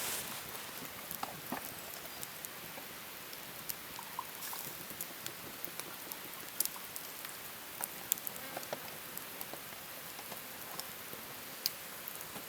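Light rain pattering: a steady hiss with scattered drops ticking irregularly.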